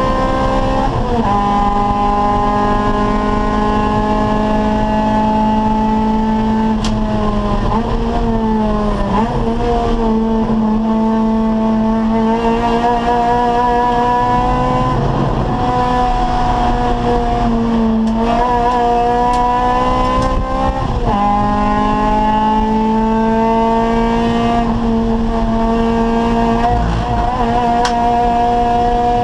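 Acura Integra race car's four-cylinder engine pulling hard around a track. Its pitch climbs slowly, then drops several times as the driver shifts or brakes, with short wavering stretches that fit downshifts.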